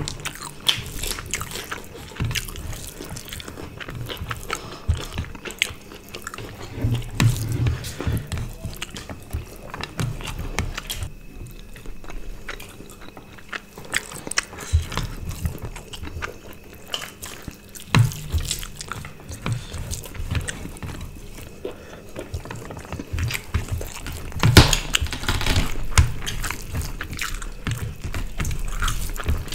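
Close-up eating sounds: chewing and biting with wet mouth clicks and smacks, plus rice and curry squelching as they are mixed by hand, in quick irregular bursts.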